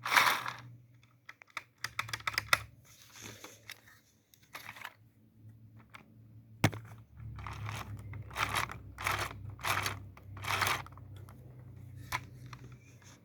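Small plastic clicks, rattles and rustles of Lego engine parts being handled, over a faint low steady hum, with one sharp click about six and a half seconds in.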